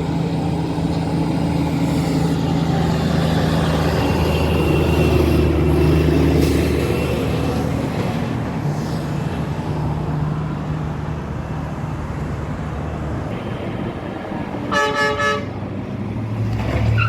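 Truck engine running steadily on the road, with a vehicle horn tooted twice in quick succession near the end.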